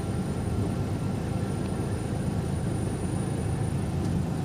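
Steady low drone of a semi truck's engine and tyres, heard from inside the cab while cruising.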